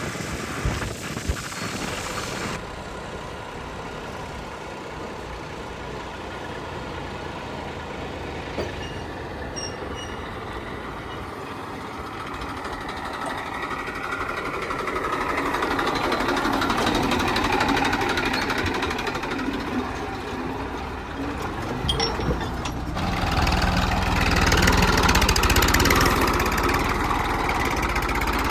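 Heavy diesel machinery engine running, growing louder twice as it works harder, with sudden changes in the sound where the footage is cut.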